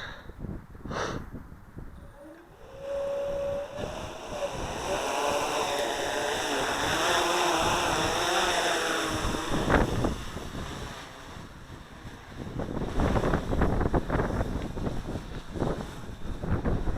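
SK450 quadcopter's brushless motors and propellers spinning up about two seconds in, then running with a shifting pitch as the quad is throttled and flown. Gusty wind buffets the microphone throughout and is loudest near the end.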